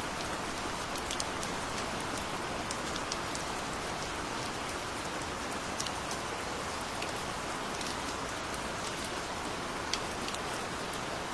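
Steady gentle rain: an even hiss of falling rain with scattered sharp drips and drop taps on a surface.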